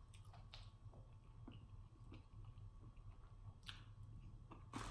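Quiet chewing of boneless chicken wings, with faint wet mouth clicks scattered through and a sharper click near the end.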